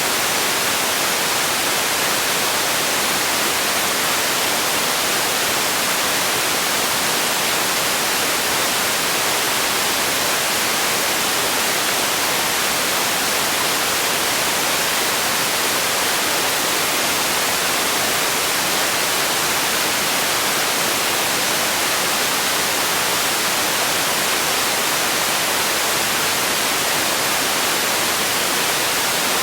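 Steady, unchanging hiss of a relaxation noise track, even across time and brightest in the high frequencies.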